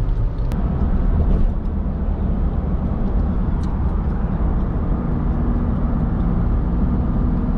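A car driving: steady low rumble of engine and road noise, with a faint steady hum joining about five seconds in.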